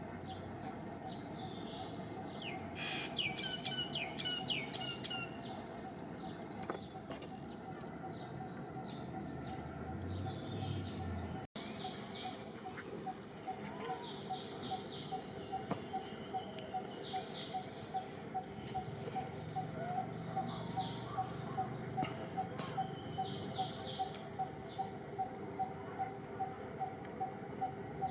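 Wild birds chirping and calling outdoors, with a steady high-pitched drone and a regular pulsing, about two beats a second, running underneath.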